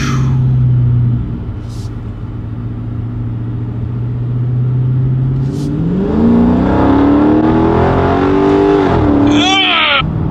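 Muffler-deleted 6.4-litre HEMI V8 of a 2023 Chrysler 300C, heard from inside the cabin: a steady cruising drone for about five seconds, then the revs climb under acceleration and drop away near the end. A brief high squeal is heard as the revs fall.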